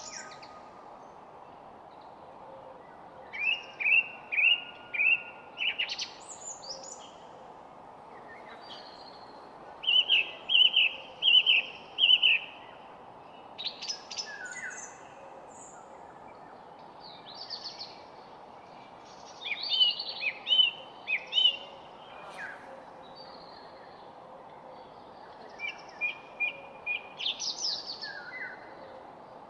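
Songbird song: four phrases of four to six quick repeated notes, several seconds apart, with scattered shorter chirps between them, over a steady faint hiss.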